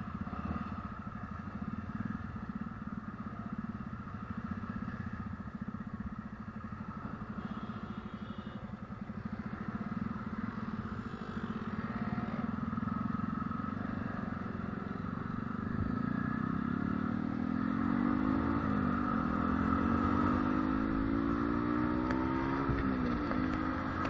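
Motor vehicle engine running steadily, then revving up from about two-thirds of the way in, with the pitch climbing and dropping back twice as it accelerates through gear changes.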